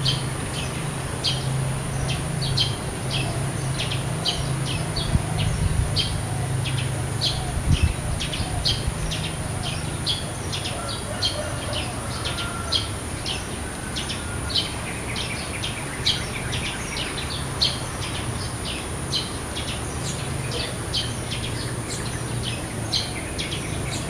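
Wild birds chirping, short high chirps repeating about two to three times a second throughout, over a steady high-pitched drone.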